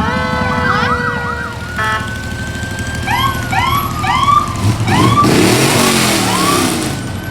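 Fire truck sirens sounding together: slowly gliding wails over a low engine rumble, with a run of quick repeating rising yelps from about three seconds in. A loud hissing rush follows about five seconds in.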